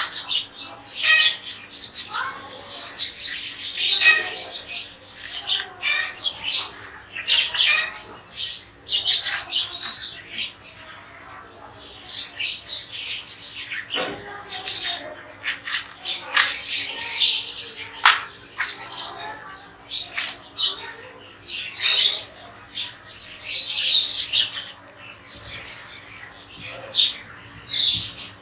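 Pet parrots squawking and chirping over one another in quick, overlapping calls, with a couple of sharp clicks in the middle.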